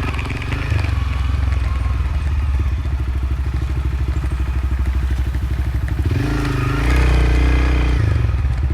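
Motorcycle engine running at low revs with a fast, even firing pulse while riding a dirt road. From about six seconds in the engine note gets louder and higher for about two seconds, then eases back.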